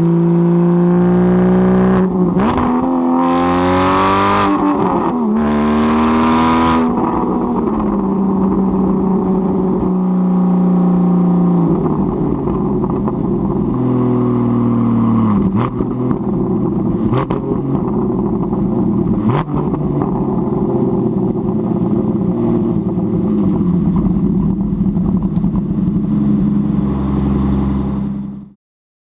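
Porsche Cayman GT4's flat-six engine through a Fabspeed race exhaust, revved hard twice within the first seven seconds and then running at varying revs, with a few sharp cracks from the exhaust. The sound stops abruptly near the end.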